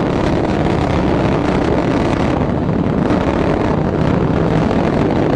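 Atlas V first stage's RD-180 rocket engine running at full thrust during ascent: a loud, steady, unbroken rumbling noise.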